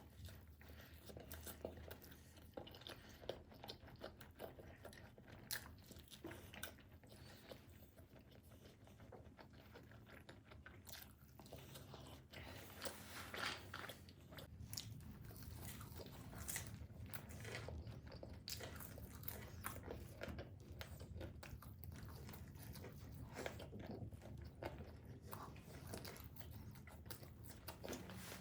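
Close-miked chewing and biting of pizza: a continuous run of small crunches and mouth clicks.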